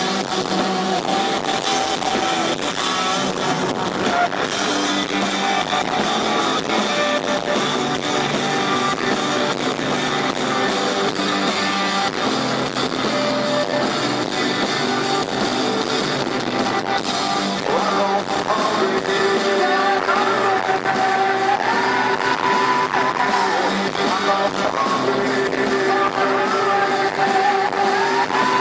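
Grunge rock band playing live, with guitars and male voices singing. The singing holds long notes, more and more in the second half.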